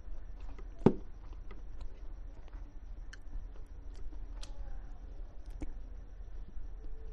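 Close-up eating sounds of roast chicken being chewed: wet mouth noises with lip smacks and small clicks, the loudest a sharp smack about a second in.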